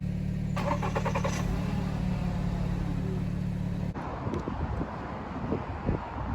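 Steady low hum of a vehicle running, which cuts off abruptly about four seconds in and gives way to uneven background noise with low thumps.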